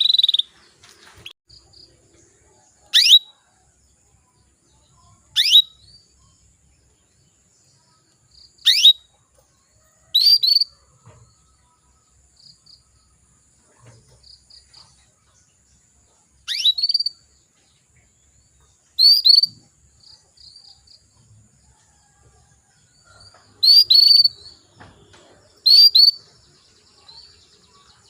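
Female canary calling: about nine short, sharp chirps that sweep quickly downward in pitch, some given as doubles, at irregular gaps of a second and a half to five seconds. Faint softer chirps sound between them.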